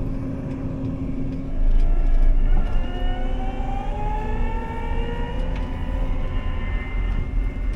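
A farm vehicle's engine picking up speed as the machine moves off, with a low rumble that swells about a second and a half in and a whine that rises in pitch, then holds steady.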